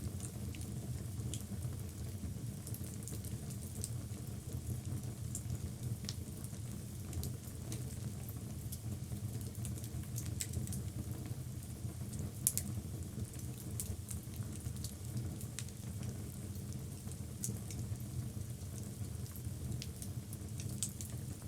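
Wood logs burning in a fireplace: a steady low rumble of the flames with scattered crackles and small pops, one sharper pop a little past halfway.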